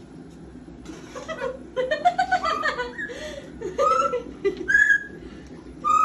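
Orange-winged Amazon parrot calling and whistling: a quick run of short chattering notes, then several separate gliding whistles about a second apart.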